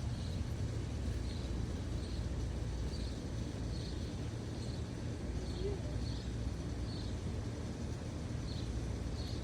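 Steady low outdoor rumble, with a bird's short high chirp repeating about once every second or less, somewhat irregularly.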